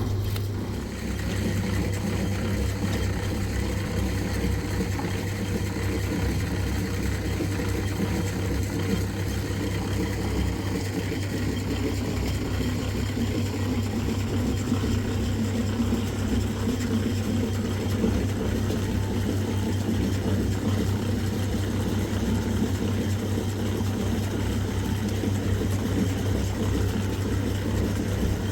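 A motor or engine running steadily, a constant low hum that holds the same throughout.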